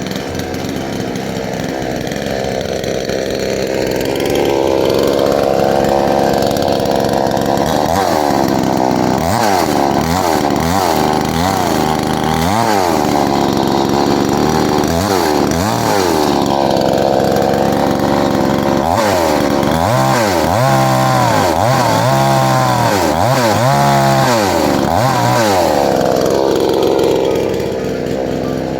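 Counterfeit 72cc 'Honda' two-stroke chainsaw running: its engine climbs from a low speed to high revs, then is blipped up and down repeatedly on the throttle.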